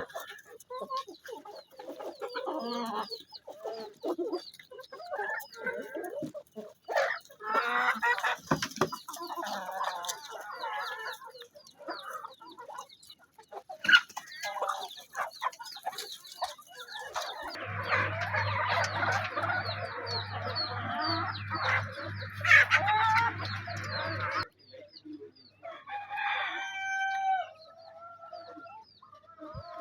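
Hens clucking continuously while they forage, with small birds chirping high above them. A low steady hum joins in for several seconds in the middle. Near the end comes a drawn-out, falling call that fits a rooster crowing.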